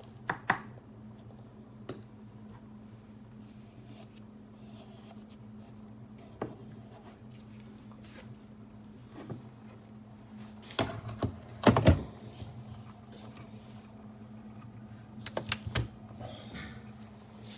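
Scattered clicks and knocks of objects being handled, over a steady low hum. The loudest knocks come in a cluster about eleven to twelve seconds in.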